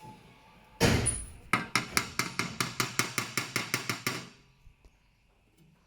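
A hammer striking metal: one heavy blow about a second in, then a fast run of sharp strikes, about six a second, that stops a little past four seconds.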